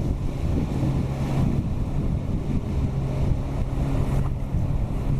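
Motorboat engine running with a steady low hum as the boat passes on the river, under heavy wind noise on the microphone.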